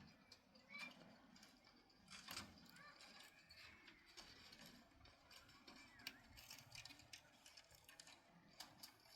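Near silence, with faint, scattered clicks and knocks.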